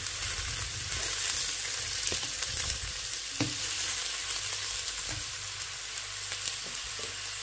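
Sliced mushrooms sizzling steadily in melted ghee in a stone-coated pot, cooking down until they wilt, while a spoon stirs them and knocks against the pan a few times.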